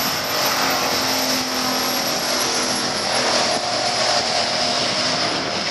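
Turbocharged LS V8 of a WB Holden Statesman at full throttle on a drag-strip pass, accelerating away down the track with a high thin whistle running above the engine noise.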